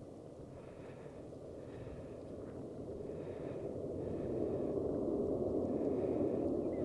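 Jet airliner approaching to land, its engine noise a steady rumble that grows steadily louder as it comes overhead.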